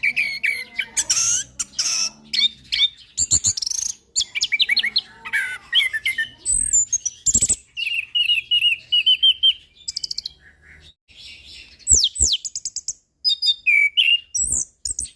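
Chestnut-capped thrush (anis kembang) singing a long, varied song of rapid chirps, trills and quick up-and-down whistles, with a short pause about two-thirds of the way through.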